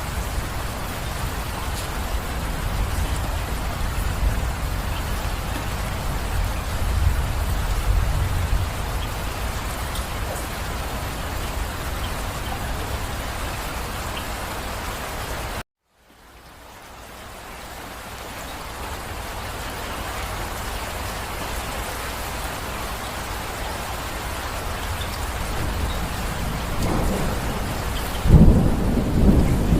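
Steady rain with deep rumbling thunder. About halfway through the sound cuts out completely for a moment and fades back in, and near the end a loud thunder rumble breaks in.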